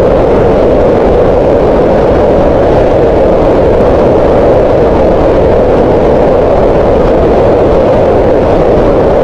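Green noise: steady synthetic noise with its energy centred around 500 Hz, a soft midrange hiss with little treble. It holds at an even level without any change.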